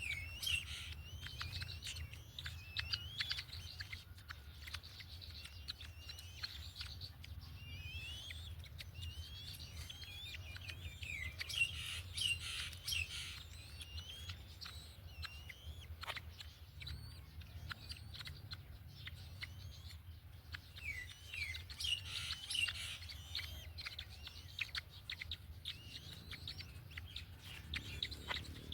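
Birds chirping: many short rising chirps, coming in flurries, over a steady low hum.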